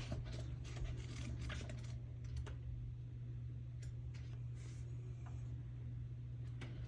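Pages of a paperback guidebook flipped through quickly: a quick run of short papery clicks for about two seconds, then a few scattered ones, over a steady low hum.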